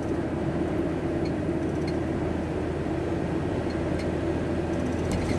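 VW T4 Transporter van on the move, heard from inside the cab: a steady, even hum of engine and road noise, with a few faint ticks.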